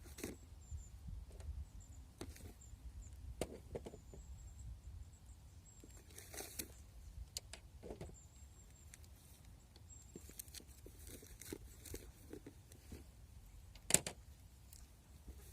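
Faint outdoor ambience: a steady low rumble with scattered light clicks and knocks, the sharpest about 14 seconds in, and faint high chirps now and then.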